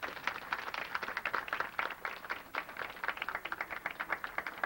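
A small crowd applauding, many hands clapping unevenly and continuously.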